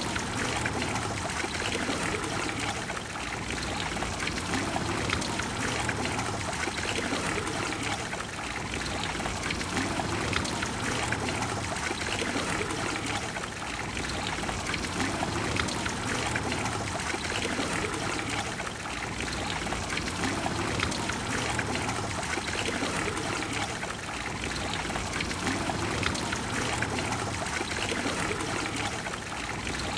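The Trevi Fountain's water cascading and splashing into its basin: a steady, full rush of falling water that swells and eases slightly every few seconds.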